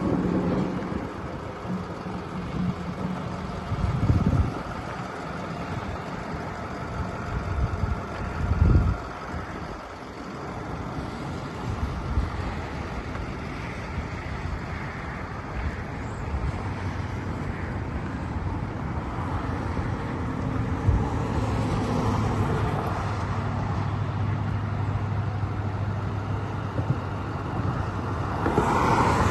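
Street sweeper truck running, a steady mechanical drone with a low hum that grows stronger in the second half, and brief low rumbles about 4 and 9 seconds in.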